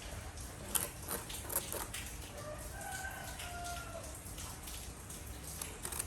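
A rooster crows once, faintly, about two and a half seconds in: one drawn-out call of a second and a half. Around it are a few light knocks and clicks, most of them in the first two seconds.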